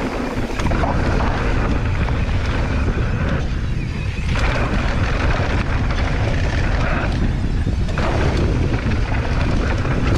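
Wind buffeting the microphone as a steady low rumble, with a rushing hiss that swells and eases as the gusts come and go.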